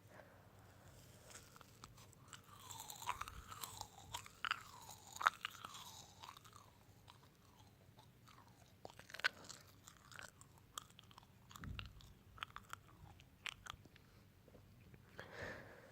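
Close-up ASMR crunching and chewing sounds: irregular sharp crunches and clicks, busiest about a third of the way in, with the sharpest crack shortly after that.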